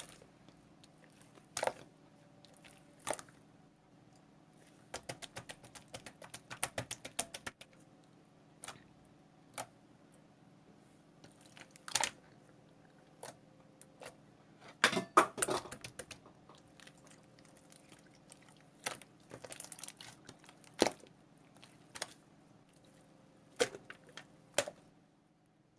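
Slime being pressed and squeezed by hand, giving scattered sharp clicks and pops. There is a quick run of clicks about five to seven seconds in and a denser crackling cluster around fifteen seconds.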